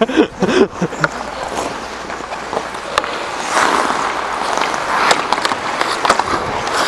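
Hockey skates scraping and carving across the playing surface with sharp clacks of sticks and puck, the scraping growing louder about halfway through as play comes closer.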